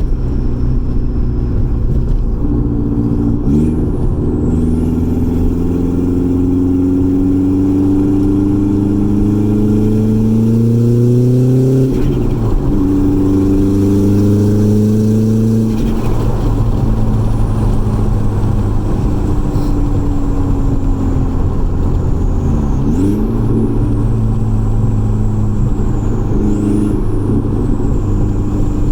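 Audi B5 A4's turbocharged 1.8-litre four-cylinder pulling hard through the gears. The engine note rises steadily, drops sharply at gear changes about twelve and sixteen seconds in, then holds a steady cruise. Brief fluttering chatters from the stock K03 turbo come at lift-offs, typical of compressor surge when the throttle closes on full boost.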